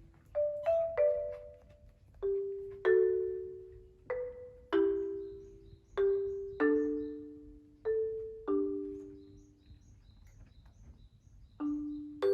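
Background music: a slow, gentle melody of single struck mallet-percussion notes, marimba-like, each ringing and fading, with a pause of about a second and a half near the end.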